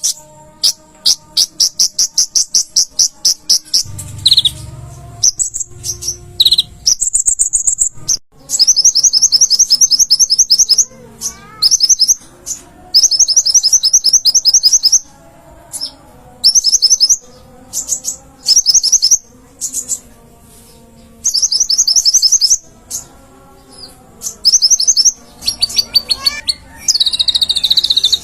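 Konin (kolibri ninja) sunbird singing in rapid trills of high, sharp chips, bout after bout with short pauses, with fainter, lower warbling phrases between the bouts.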